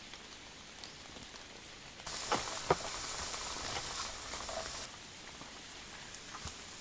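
Diced vegetables and sausage sizzling on a hot griddle pan over a gas camp stove, with two or three sharp clicks of a spatula; the sizzle starts suddenly about two seconds in and stops about three seconds later. A faint steady hiss lies under the rest.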